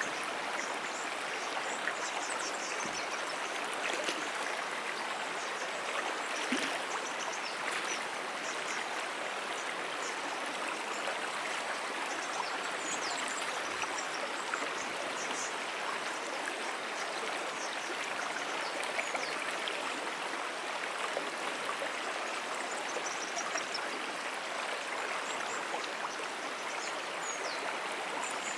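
A stream flowing steadily, a continuous even rush of running water, with faint high chirps scattered through it.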